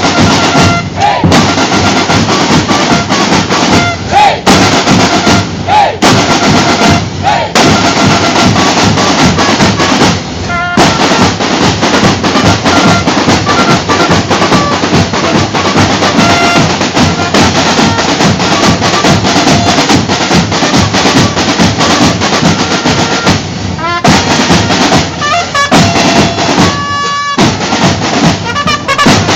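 Marching band playing loudly: snare and bass drums beat a continuous march rhythm with rolls, and brass notes ring out over the drums, most clearly near the end.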